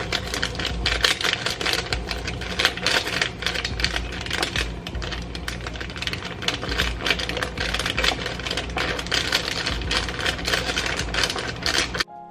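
Fast, continuous clatter of typing on a computer keyboard, dense overlapping key clicks that stop abruptly near the end.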